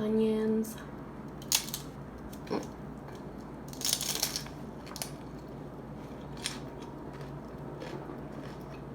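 Close-up crunching of a crisp hard taco shell being bitten and chewed: a few single sharp crunches, with a burst of crunching about four seconds in.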